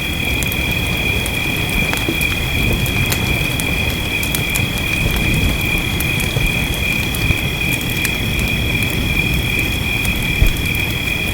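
Wood fire crackling with sharp, irregular pops over a steady low rumble of rain. A steady high-pitched tone hangs over it throughout.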